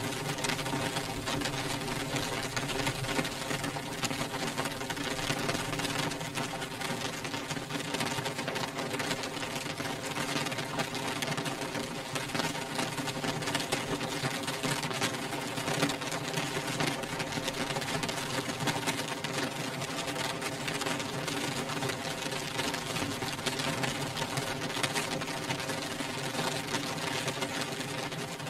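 Rain beating on window glass: a dense, steady patter of raindrops hitting the pane.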